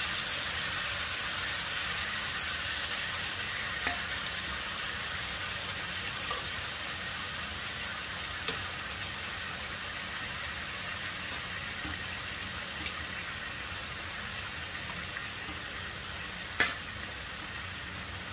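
Chicken pieces frying in hot oil in a pan: a steady sizzle that slowly eases, broken by a few sharp clicks, the loudest about a second and a half before the end.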